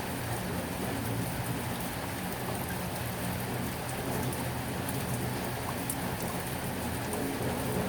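Heavy rain falling steadily, a dense even wash of sound with scattered sharp drop ticks.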